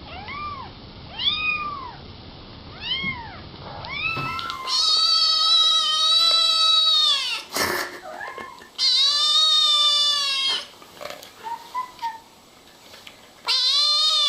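Domestic cat meowing. First come about six short, arched meows in quick succession. Then there are three long, loud, drawn-out meows, each about two seconds, with a sharp click between the first two.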